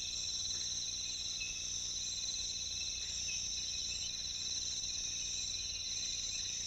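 Rainforest insects calling in a steady chorus: an unbroken high trill sounding at several pitches at once, without pause or change.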